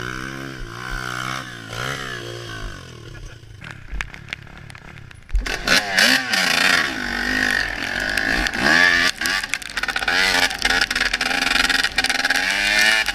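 Motocross bike engine revving up and down repeatedly, moderate at first and much louder from about five seconds in.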